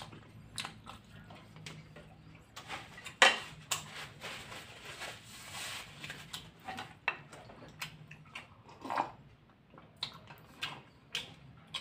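Close-up eating sounds of soft boiled fish cake being chewed: wet mouth smacks and scattered soft clicks, with a stretch of rustling about four to six seconds in.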